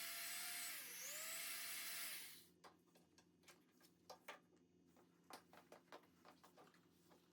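A small electric power tool running steadily. Its pitch dips briefly about a second in and recovers, then it switches off after a little over two seconds. Faint light clicks and taps follow.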